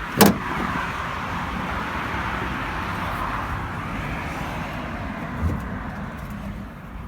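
A loud clunk just after the start, then road traffic noise that swells and slowly fades over several seconds, with a soft thump near the end.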